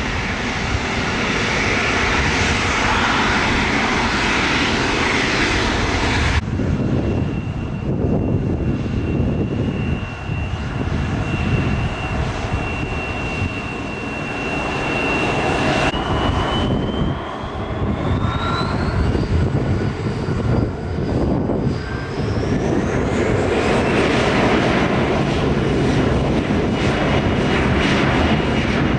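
Jet airliner engines running loud and steady, with a high whine that holds one pitch, then climbs. The sound changes abruptly twice, as between separate shots.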